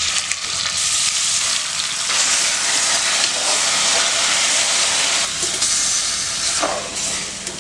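Chicken pieces in a wet curd-and-green-herb marinade sizzling in hot oil in a pressure cooker as they go in and are stirred with a metal slotted spoon: a steady frying hiss that eases off near the end.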